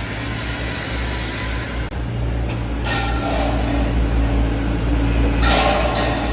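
Excavator diesel engines running steadily, with two short bursts of hiss about three seconds and five and a half seconds in.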